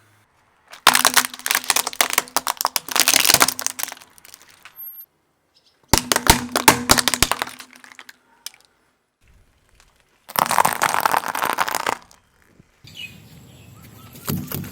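Crunching and cracking of crunchy objects being crushed under a car's tyre, in three separate bursts, each cut off abruptly.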